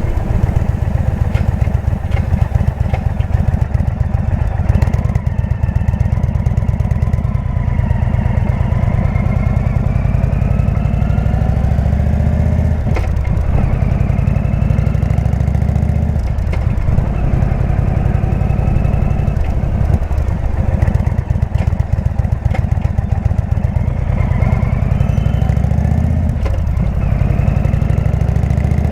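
Indian V-twin motorcycle engine with a Jekill & Hyde exhaust running under way. The engine's pitch rises and falls, with a few brief drops in the note as the throttle is closed or a gear is changed.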